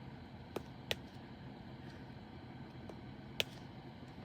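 Three light, sharp clicks over a faint steady background hum: a diamond-painting drill pen tapping resin drills onto the adhesive canvas. Two clicks come close together about a second in, and a third follows a few seconds later.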